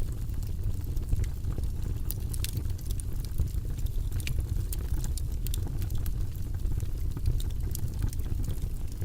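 Wood fire in a fireplace crackling: many scattered sharp pops and snaps over a steady low rumble of burning.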